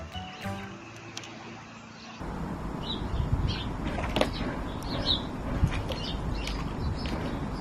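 A small parrot chirping: short high chirps about twice a second from about two seconds in, over a steady rustling background. Before that, quieter sustained tones.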